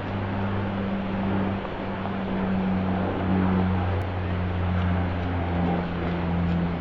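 Steady rain with a motor vehicle's engine running, a continuous low hum that wavers slightly in pitch. A faint click about four seconds in.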